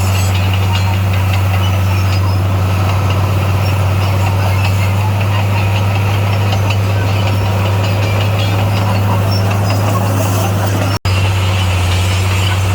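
Heavy diesel engine of construction machinery running steadily with a deep, even hum. The sound cuts out for an instant about eleven seconds in.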